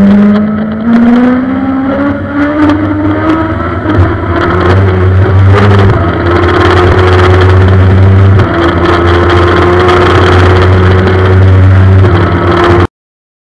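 Suzuki GSX-R 1000's inline-four engine pulling hard at high revs under heavy wind noise. Its pitch rises over the first few seconds, then holds high and steady. The sound cuts off abruptly near the end.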